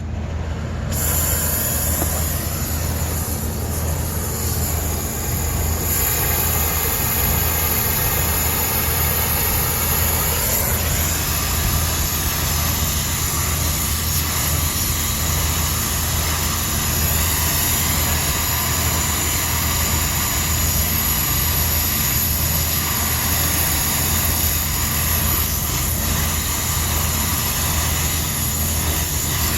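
Brazing torch flame burning steadily as refrigeration piping joints are brazed, a continuous rushing sound over a steady low hum.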